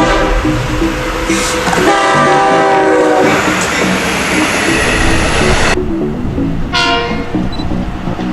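Diesel locomotive horn on a Long Island Rail Road train sounding several blasts: a short one at the start, a longer one about two seconds in, and another near the end, over train running noise.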